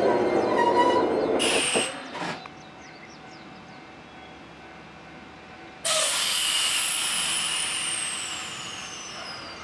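Train running noise fades out about two seconds in, with a couple of short air hisses. After a quiet spell, a loud hiss of compressed air starts suddenly about six seconds in from the Nankai 2300-series railcar standing at the platform, with a high whistle that falls slowly in pitch.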